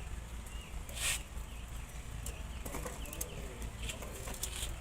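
Small birds chirping in the background over a steady low hum, with a short hiss about a second in.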